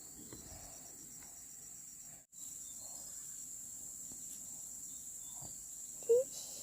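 Crickets chirring in a steady high-pitched drone, with a brief dropout about two seconds in. Near the end comes one short rising squeak.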